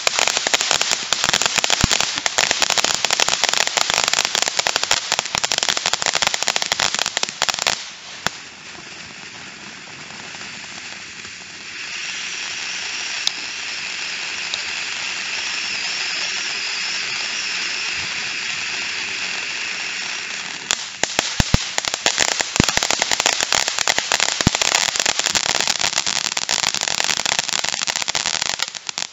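Small consumer ground fireworks going off: a dense, rapid crackling for about eight seconds, a steady hiss with a faint high whistle through the middle, then the crackling starts up again about three-quarters of the way through.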